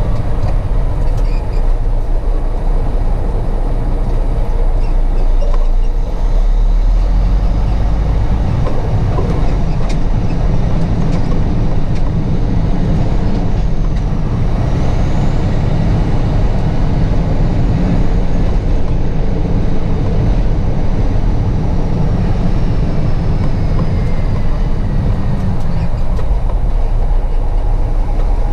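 Semi-truck running, a loud, steady low rumble.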